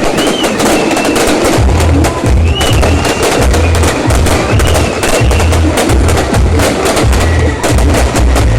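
Fireworks and firecrackers going off in a dense, continuous crackle, with uneven deep booms and a thin, wavering high whistle above them.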